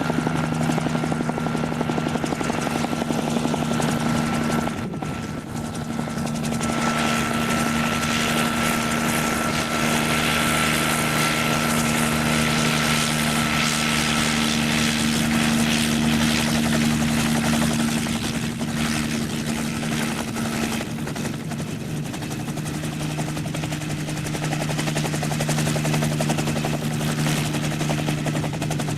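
Helicopter running close by, a steady rotor beat over a low engine drone, with a high steady whine that fades away about halfway through.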